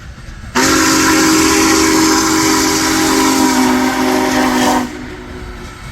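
Steam whistle of Union Pacific Big Boy No. 4014 sounding one long blast of about four seconds, a chord of several notes over a rush of hissing steam, starting and cutting off sharply.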